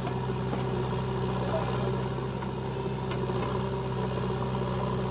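John Deere 5036 tractor's diesel engine running steadily.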